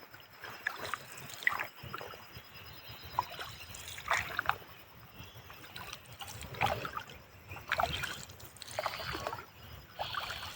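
River water splashing and sloshing around a rafting boat, in short irregular splashes.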